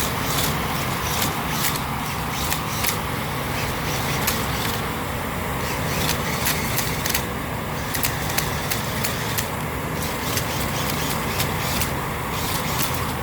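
Steady loud mechanical roar from the dust-collection or cleaning equipment, with frequent irregular sharp ticks and crackles scattered through it.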